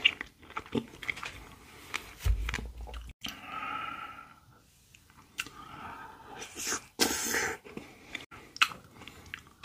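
Close-miked chewing of strawberry shaved-ice dessert: crisp fresh strawberries and shaved ice crunched, with wet mouth clicks and smacks. A dull thump comes about two seconds in.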